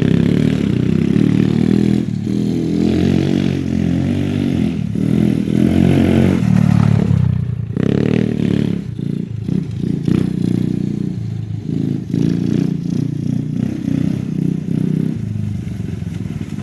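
Swapped-in 125cc single-cylinder ATV engine running under a rider, revving up and easing off again and again with short throttle lifts, choppier in the second half.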